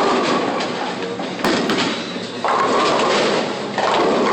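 Bowling alley lane noise: a bowling ball rolling down the lane amid the alley's din, with one sharp knock about one and a half seconds in.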